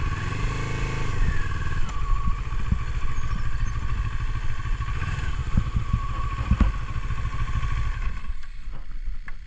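Motorcycle engine revving up and easing back in the first second or so, then running steadily with scattered knocks and rattles, dropping away sharply near the end.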